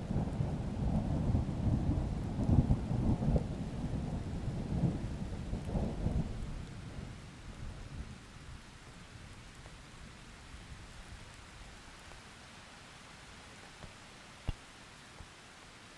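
Thunderstorm: a long, deep roll of thunder over steady rain, rumbling for about six seconds and then fading away, leaving the even hiss of rain. A single sharp drip or tap sounds near the end.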